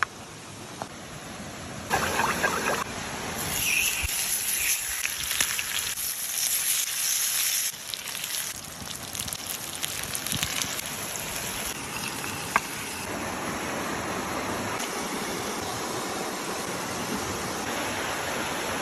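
Whole fish frying in hot oil, a steady sizzle that swells loud about two seconds in and settles to an even hiss after about eight seconds, with a single sharp click partway through.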